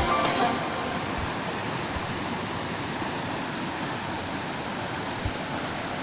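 Spring water rushing steadily, a strong continuous flow.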